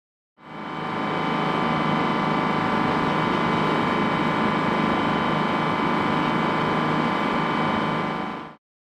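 A machine running steadily with an even, unchanging hum, starting suddenly about half a second in and cutting off suddenly near the end.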